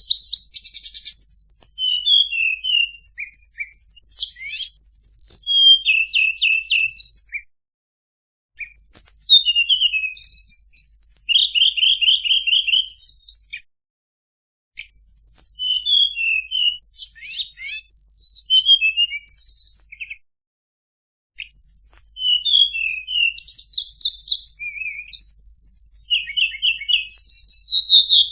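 Tledekan bird song: rapid high chirps, short whistled notes and trills in busy phrases several seconds long, broken by pauses of about a second, three times. A masteran recording, meant to teach caged songbirds.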